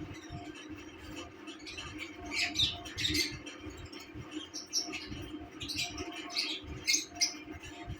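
Pet lovebirds chirping: short, sharp, irregular chirps, louder in a cluster a few seconds in and again near the end, over a steady low hum.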